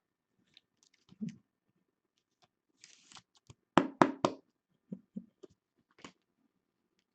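Trading cards and their packaging being handled on a table: scattered light clicks, taps and rustles, with a short cluster of louder knocks about four seconds in.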